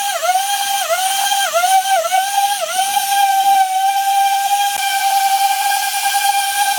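A high-speed electric power tool running with a steady high whine; over the first three seconds its pitch dips briefly about five times as it bogs under load, then it runs steady.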